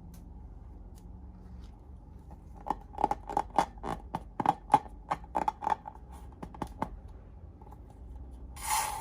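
Slime being squeezed and worked by hand, giving a quick run of about fifteen sharp crackling clicks over some four seconds, followed by a short hiss near the end.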